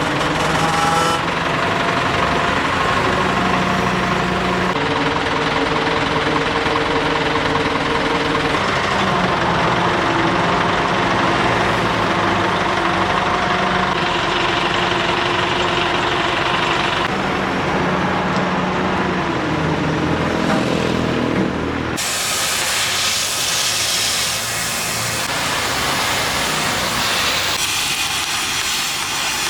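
A heavy machine's engine runs with a steady hiss, its pitch wandering up and down. About three-quarters of the way through, the sound cuts abruptly to a steady, higher hissing noise.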